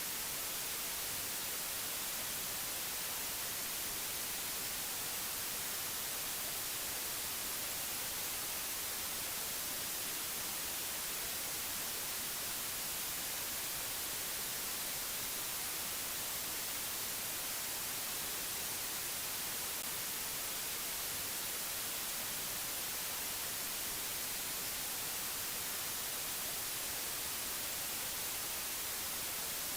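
Steady, unchanging hiss of white noise, brightest in the high end, with no other sounds over it.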